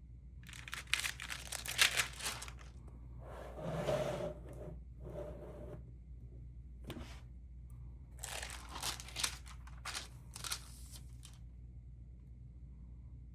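Stamp album pages being turned and handled, crinkling and rustling in two spells: about a second in, and again around eight to eleven seconds in.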